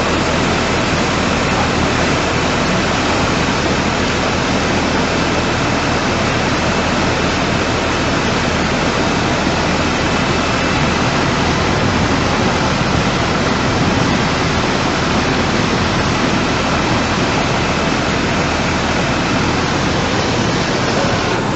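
Rushing floodwater: a steady, loud, unbroken roar of moving water.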